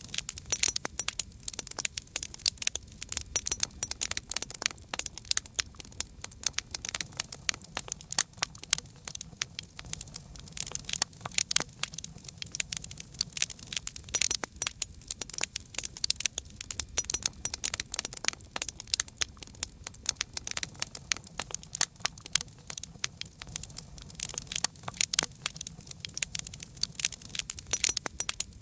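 Campfire crackling: a dense, irregular stream of sharp pops and snaps from burning wood over a soft low rumble of the flames.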